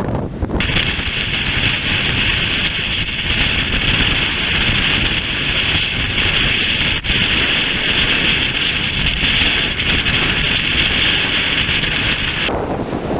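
Storm-force wind buffeting the microphone with a heavy low rumble. A steady high hiss starts abruptly about half a second in and stops just as abruptly near the end.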